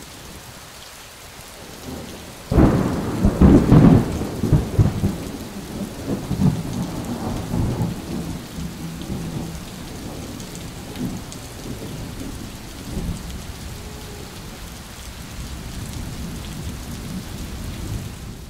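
Steady rain falling, with a thunderclap about two and a half seconds in that rumbles loudly for a second or two and then rolls away slowly.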